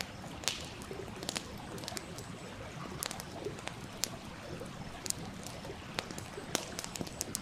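Wood fire crackling with irregular sharp pops every second or so, over the steady rush of a stream.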